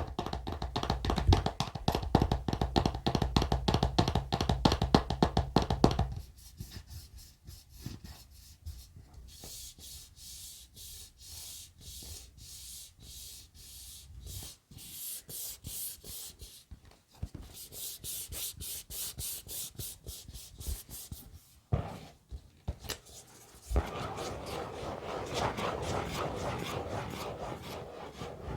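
Close-miked ASMR trigger sounds of rapid scratching and rubbing strokes on a surface. They are dense and heavy for about the first six seconds, then turn lighter and higher-pitched. There are a couple of sharp taps a little past the middle, and steady, dense rubbing over the last few seconds.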